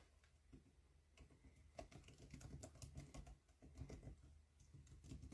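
Faint, quick run of small clicks and taps, closely spaced, over near silence; it thickens about two seconds in.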